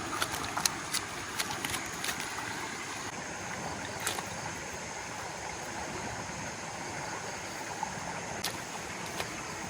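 Steady flowing water, with a few short sharp clicks and taps scattered through it.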